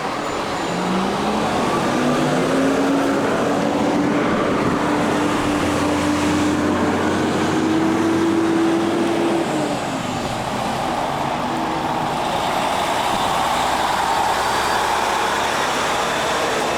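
Road vehicle passing: an engine tone rises over the first couple of seconds, holds and climbs slowly, then fades out about nine and a half seconds in, over steady traffic noise.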